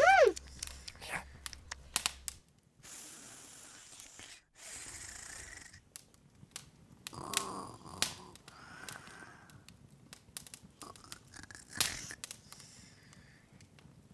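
Open wood fire crackling, with irregular sharp pops and soft hissing stretches. Right at the start, a short, loud high squeak falls in pitch.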